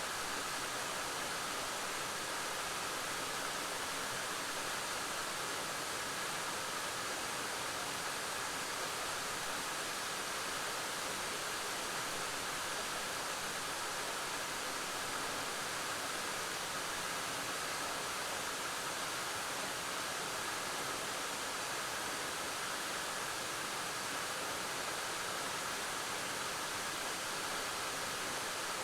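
Suok Falls waterfall: water falling and splashing in a steady, unbroken rush.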